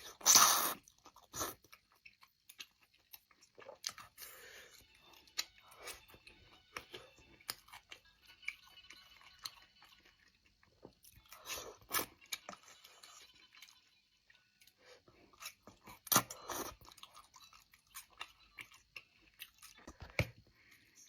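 Close-up mukbang eating sounds: a person biting, chewing and crunching food with wet mouth clicks, interrupted by several louder crunchy bites.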